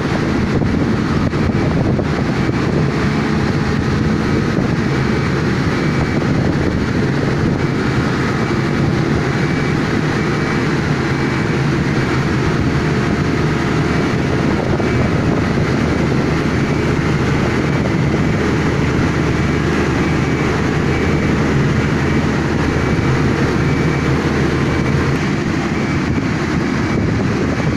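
Large engine running steadily at a constant speed, an even low hum that does not change through the whole stretch.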